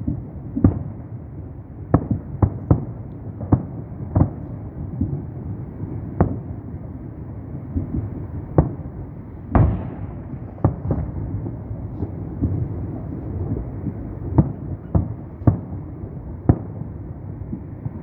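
Aerial firework shells of a public salute bursting: sharp booms at irregular spacing, roughly one a second, over a steady rolling rumble, with the loudest bang about halfway through trailing off longer.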